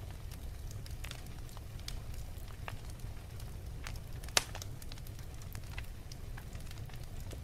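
Wood fire crackling in a fireplace: a steady low rumble with scattered snaps, and one loud pop just past the middle.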